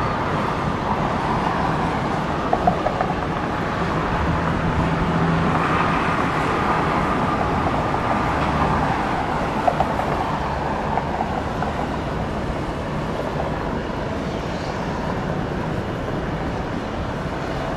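Heavy jet airliner's engines at takeoff power: a steady rushing rumble that swells a few seconds in and then slowly eases as it climbs away.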